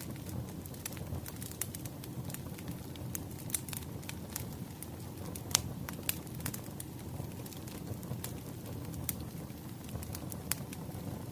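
Wood fire crackling, with many irregular sharp pops over a steady low rush of burning logs; the loudest pop comes about halfway through.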